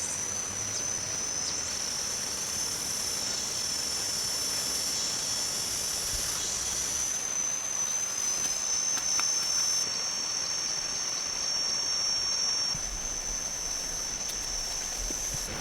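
Steady high-pitched insect chorus, several thin trilling tones held over a background hiss.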